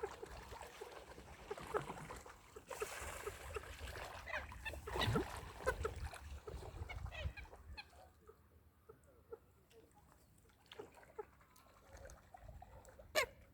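Birds calling with many short calls in quick succession, thinning out after about eight seconds, with one louder call near the end.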